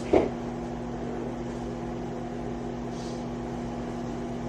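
Steady electrical hum of a running kitchen appliance, with one short knock just after the start.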